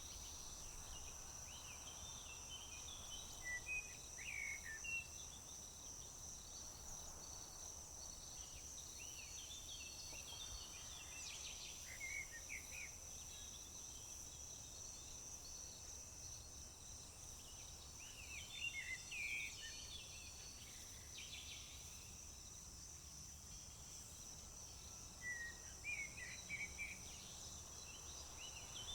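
A steady high-pitched trill of crickets, with songbirds chirping in short bursts every few seconds over it.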